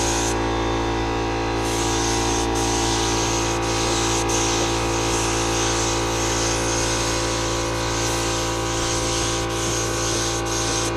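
Air spray gun hissing as it lays on clear coat, with short breaks between passes. Under it is a steady machine hum.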